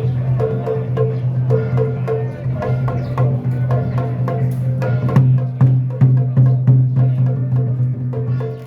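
Xiaofa ritual music: percussion with many sharp, quick strikes over a steady low tone, with a short higher note repeating in a pattern.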